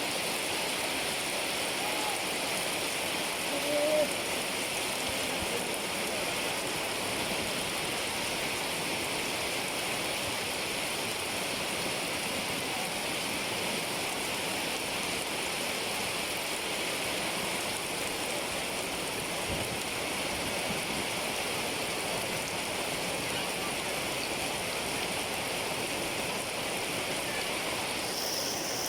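Steady, even hiss of water, with a brief louder sound about four seconds in.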